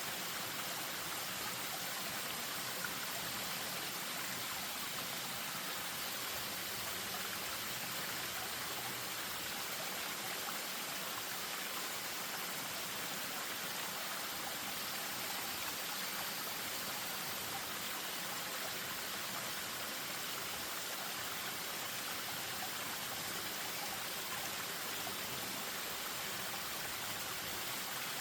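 Spring-fed stream running over a small waterfall: a steady rushing and splashing of water.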